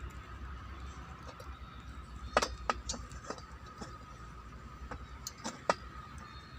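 Irregular clicks and knocks of brush-cutter parts and hand tools being handled during reassembly, the loudest about two and a half seconds in and again near the end, over a faint steady tone.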